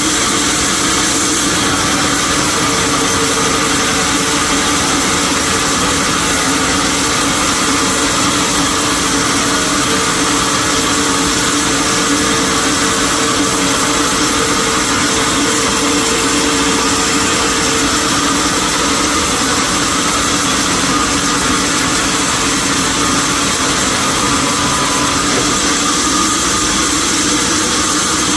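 Sawmill machinery running steadily, an even mechanical noise with a faint steady hum in the first half.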